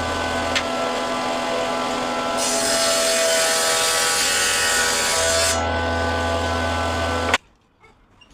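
Electric power tool running on wood with a steady motor hum. It turns louder and hissier for about three seconds in the middle, then cuts off suddenly near the end.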